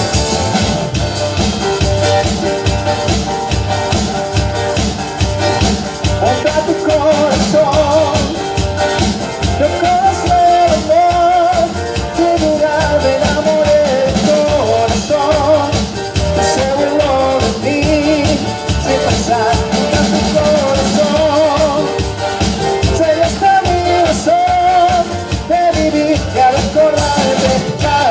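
Band playing a Latin dance song: a wavering lead melody over a steady, driving beat and bass.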